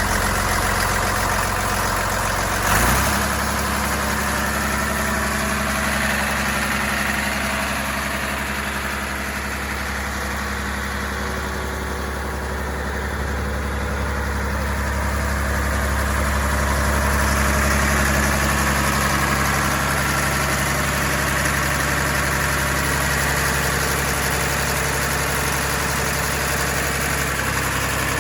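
Engine of a Reed C50HPS trailer concrete pump running steadily at idle. A short clunk about three seconds in comes as the engine note shifts lower; the note changes again near the end.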